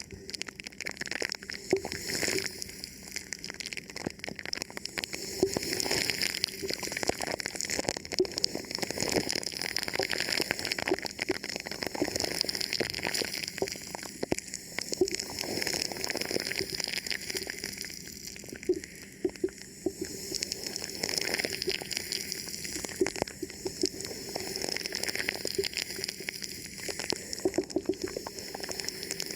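Fingers rubbing and touching a thin plastic film wrapped over a microphone: close, continuous crinkling and crackling made of many small clicks.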